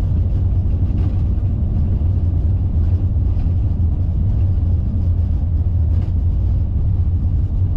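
Steady low rumble on an Airbus A380 flight deck as the airliner taxis after landing.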